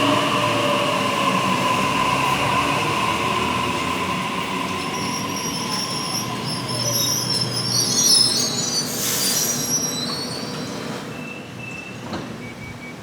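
Electric passenger train slowing into the platform: a whine falls slowly in pitch as it decelerates, high-pitched brake and wheel squeals come in about halfway through, and a short burst of hiss follows near the stop.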